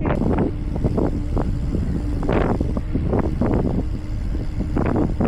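Wind buffeting the microphone of a moving bicycle in irregular gusts, a steady rumble with flares, which is the sound of riding along at speed.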